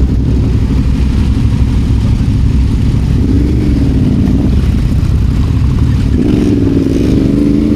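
Adventure motorcycle engine running under way off road, the revs rising and falling a few seconds in and again near the end.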